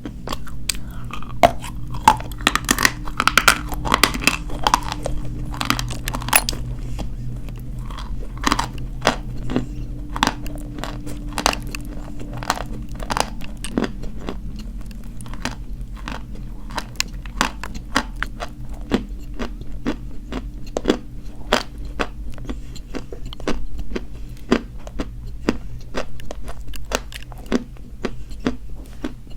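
Close-miked biting and chewing of dry white chalk: a continuous run of sharp, dry crunches, densest in the first several seconds, over a low steady hum.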